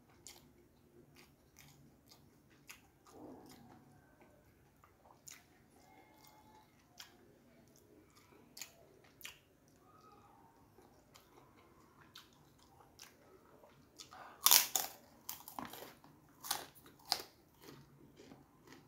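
Close-up mouth sounds of eating: soft chewing with small wet clicks, then a run of loud, sharp crunches from about fourteen to seventeen seconds in as a fried kerupuk cracker is bitten and chewed.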